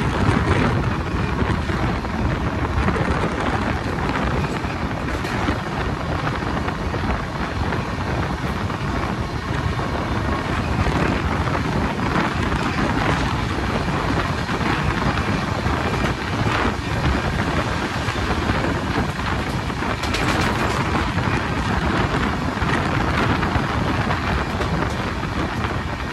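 Express train running at speed: a steady, loud rumble of wheels on the rails and rushing air, with wind noise on the microphone.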